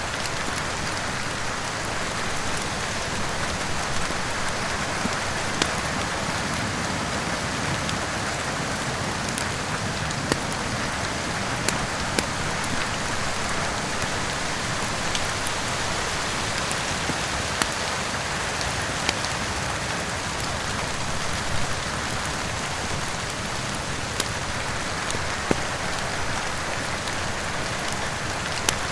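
Steady heavy rain with a crackling wood fire: an even hiss of rain, broken by scattered sharp pops every second or so.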